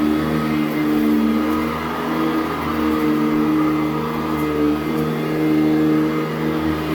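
Sanitaire SC899 commercial upright vacuum running on carpet: a steady motor hum that shifts slightly in pitch and strength as it is worked.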